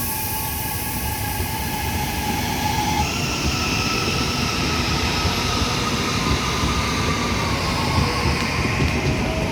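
Electric commuter train pulling out of the station, with steady wheel and rail rumble under a motor whine. The whine steps up in pitch about three seconds in as the train gathers speed.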